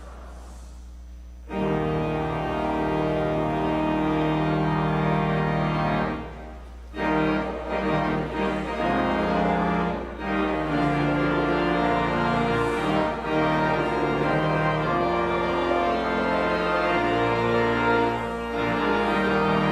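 Church organ playing sustained chords, starting about a second and a half in. The chords break off briefly about six seconds in, then resume.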